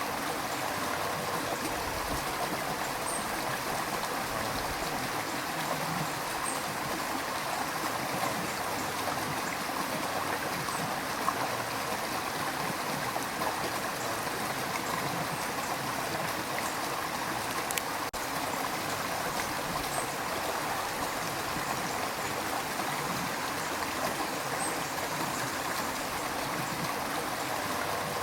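Steady river water rushing and gurgling over stones, a continuous even flow.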